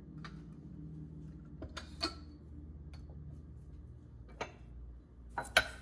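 Light clinks and taps of dishes and utensils being handled on a kitchen counter: a few separate knocks, the loudest about two seconds in, and a quick cluster near the end.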